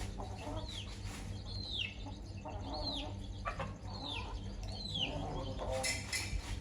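Chicks peeping, about five sharp falling chirps spaced roughly a second apart, with a hen's soft low clucking between them. A short scratchy rustle comes near the end, over a steady low rumble.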